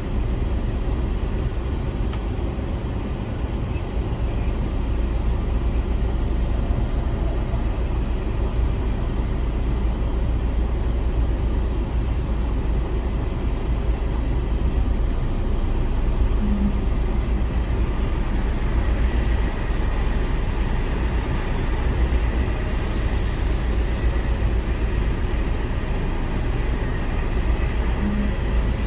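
Semi truck's diesel engine running steadily with a low rumble, heard from inside the cab as the truck pulls into a garage-type dock. There is a brief hiss about three-quarters of the way in.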